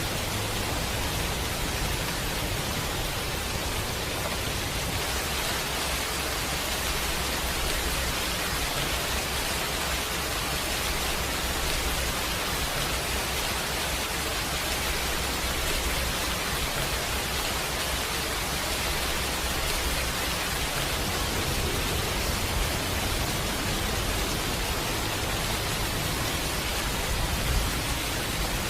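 Steady rain, an even hiss with a low rumble beneath it, without pause or change.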